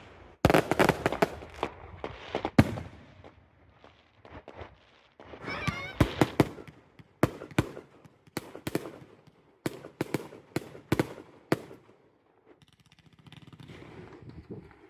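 Fireworks going off. A rapid crackling volley of bangs opens, another dense cluster follows a few seconds later, then single loud bangs come roughly every half second before dying away.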